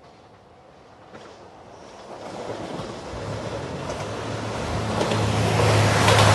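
JR Shikoku 2700 series diesel express train approaching, the sound of its wheels on the rails and its engines growing steadily louder, with a low engine hum coming in over the last couple of seconds.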